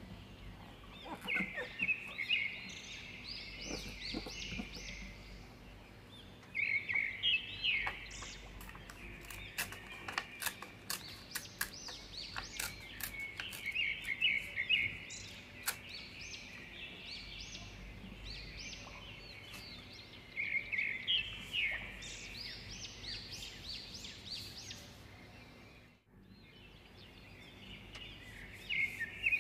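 A small songbird chirping in rapid bursts of high notes that return every few seconds, with scattered light clicks and rustles of paper being handled.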